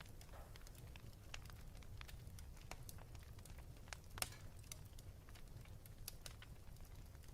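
Wood fire in a fireplace crackling, with irregular small snaps and pops, one louder pop about four seconds in, over a low steady rumble.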